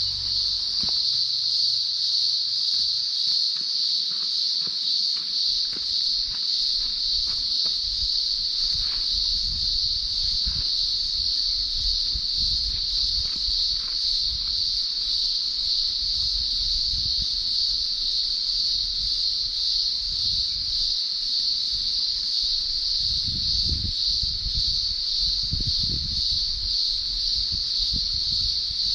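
A chorus of cicadas shrilling in one steady, unbroken, high-pitched drone.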